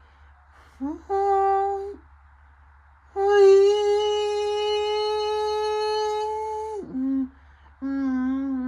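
A person humming held notes: a short note, then a long steady one of about three and a half seconds that slides down in pitch at its end.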